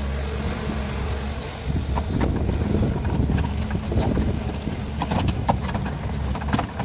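Hitachi hydraulic excavator's diesel engine running steadily, with irregular clanks and knocks from about two seconds in, typical of the machine working.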